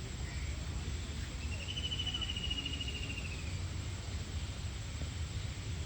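Outdoor ambience: a steady low rumble and a faint, continuous high buzz. About a second and a half in, a rapid pulsing trill comes in and lasts about two seconds.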